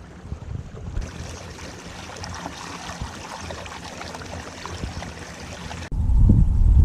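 Water rushing and trickling along a moving kayak's hull. About six seconds in it gives way suddenly to a much louder low rumble.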